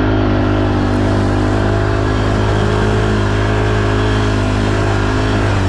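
Off-road vehicle engine running at steady revs, its pitch rising and falling slightly.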